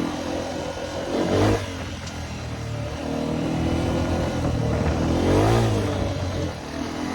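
Dirt bike engine revving up and down as it is ridden, with a sharp rise in revs about a second and a half in and another longer rise about five and a half seconds in.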